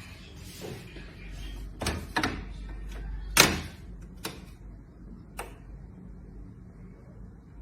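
A handful of short, sharp knocks at uneven intervals, the loudest about three and a half seconds in, over a low steady background hum.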